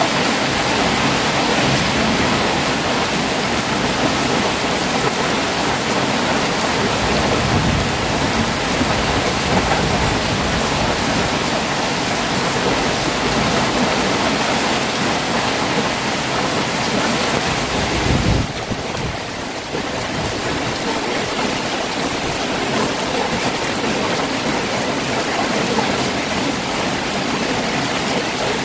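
Heavy rain falling steadily, a dense even hiss. About two-thirds of the way through comes a short low rumble, and the hiss drops for a moment right after it.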